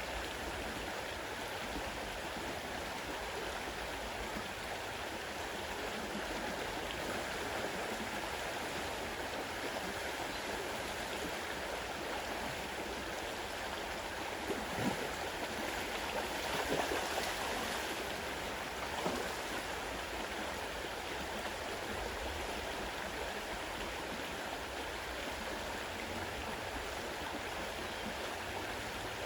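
Fast-running river water rushing steadily, with a few brief louder sounds about halfway through.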